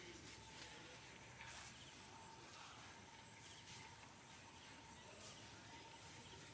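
Near silence: faint background hiss with a thin steady tone and a few soft clicks.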